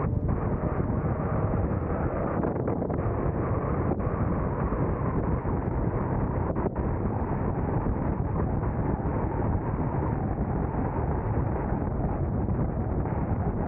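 Steady wind noise on the microphone mixed with the road and tyre noise of a moving car, an even rumble with no pauses.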